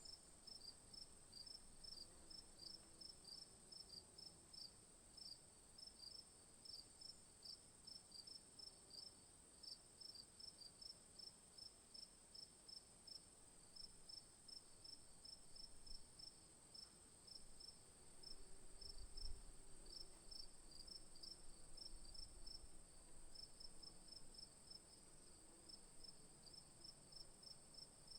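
Faint insect chorus: a continuous high steady drone with regular short chirps at about three a second, like crickets. A brief low rumble comes about two-thirds of the way through.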